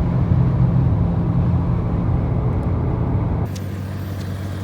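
Steady low engine and road drone of a car cruising at highway speed with a small trailer in tow. About three and a half seconds in it cuts off suddenly, replaced by a quieter, even engine hum with a faint high whine.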